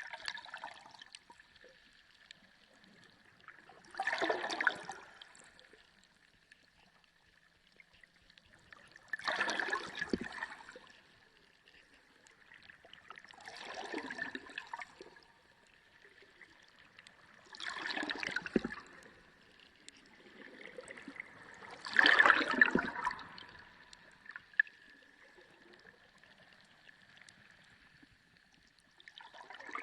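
Sea water gurgling and sloshing in surges that come about every four to five seconds, each lasting a second or so, over a faint steady high whine.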